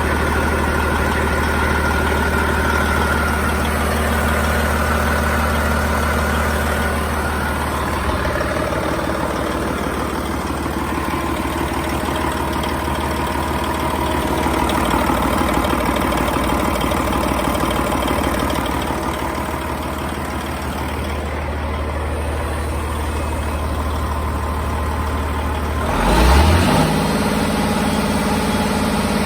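Diesel engine with DDEC III electronic controls running steadily at idle. Near the end it surges briefly, then settles into a steady run at a different speed.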